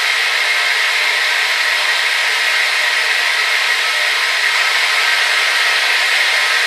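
Hair dryer running steadily: an even rush of blown air with faint steady tones from its motor, unchanging in level.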